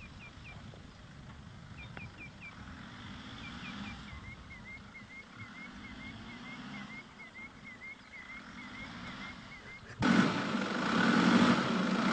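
Small birds chirping over quiet open-air background, with short high calls repeating about twice a second. About ten seconds in, the Nissan Patrol SUV's engine comes in suddenly and loudly, running with a steady low hum.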